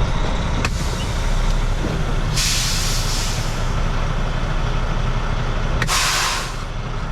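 Semi-truck diesel engine running steadily, with two loud hisses of compressed air from the air brake system, the first about two and a half seconds in and a shorter one near the end.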